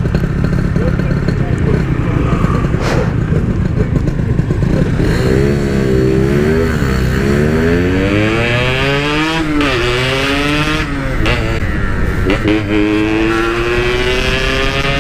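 Yamaha RX-King's two-stroke single-cylinder engine, heard from the rider's seat, accelerating hard through the gears. After a few seconds of low running rumble, the engine note climbs and drops sharply at each upshift, four times.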